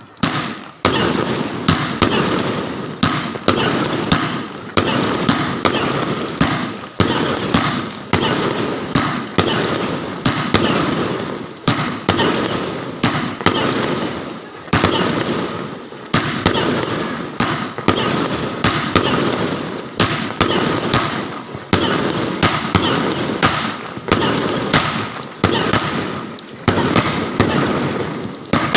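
Fireworks going off in a continuous barrage: sharp bangs follow one another about every second, each trailing off in crackle, with no pause.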